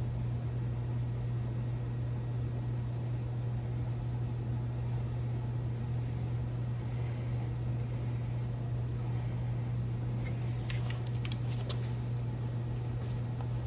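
Porsche 356C's air-cooled flat-four engine idling steadily on a cold start, a smooth even hum, with a few light clicks about eleven seconds in.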